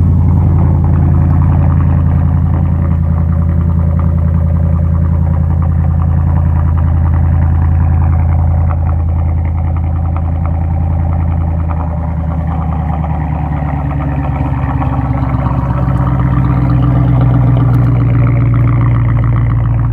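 Mercedes E55 AMG V8 idling loudly through a muffler- and resonator-delete exhaust shortly after a cold start. The idle dips and settles slightly about twelve seconds in, then holds steady.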